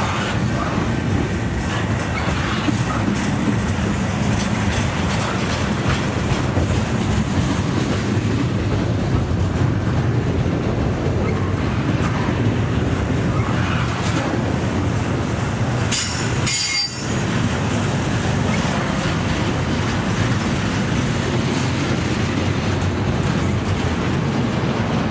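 Double-stack intermodal container train of well cars rolling past close by, with a steady, loud rumble of steel wheels on the rails.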